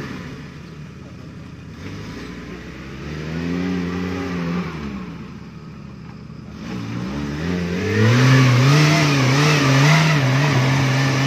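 Suzuki Jimny off-road engines revving hard as they climb a muddy, rutted slope. One engine surges and falls away in the first half. A second, closer and louder engine comes in about seven seconds in and is held at high revs, its pitch wavering under load.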